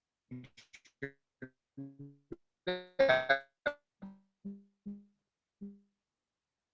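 A short melody of separate keyboard-like notes. It quickens into a loud cluster of notes about three seconds in, then ends on four repeated single lower notes.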